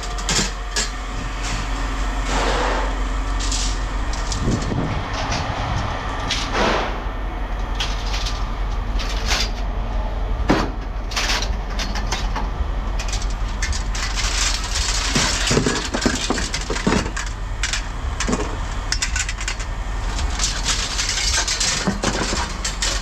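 Scrap copper pieces being handled and tossed, with scattered clinks and knocks, over a steady low engine rumble.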